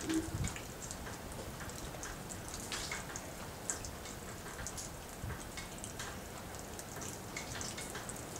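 Rain falling, with irregular drops and drips tapping close by, and a brief low thump right at the start.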